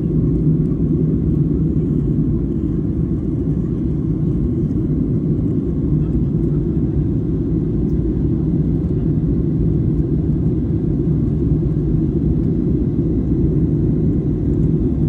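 Steady low rumble inside the cabin of a Boeing 737-800 airliner in flight, engine and airflow noise with a steady low hum running under it.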